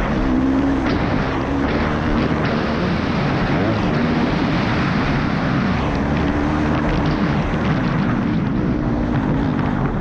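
Motorcycle engine running while riding, its pitch drifting up and down with the throttle over a steady rush of noise.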